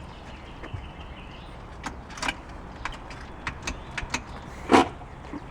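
A string of sharp clicks and knocks at irregular spacing, the loudest a little before the end, with no engine or starter running.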